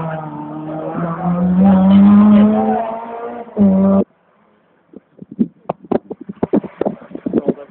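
Rally car engine revving hard as the car passes close, its pitch climbing and dipping through the gears. It is cut off abruptly about four seconds in, and after that come only scattered sharp knocks and crackles on the microphone.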